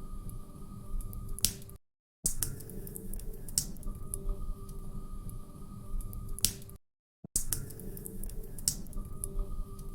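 Log fire crackling, with irregular small crackles and a few sharp pops over a faint steady hum. The sound cuts out briefly twice, about two and seven seconds in, and repeats like a short loop.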